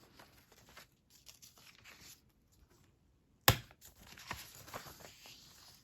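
Old paper pages and clippings rustling and crinkling as they are handled, with one sharp knock about three and a half seconds in.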